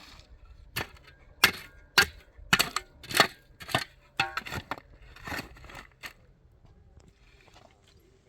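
A hand tool striking masonry: a series of about eight sharp, hard knocks roughly half a second apart, some with a brief metallic ring, then a rougher scraping stretch before it thins out to faint ticks.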